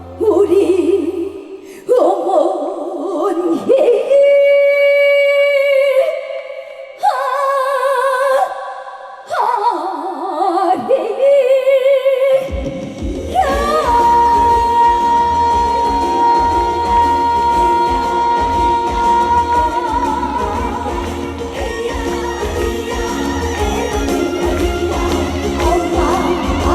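Live trot song: a woman's voice sings held, wavering notes with strong vibrato over sparse accompaniment, then a full band with heavy bass comes in about halfway through.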